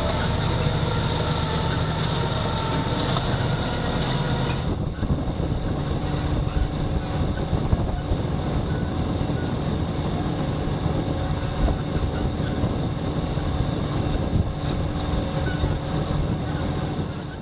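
Farm tractor engine running steadily under load, with a high whine over the low drone; the whine drops away about five seconds in.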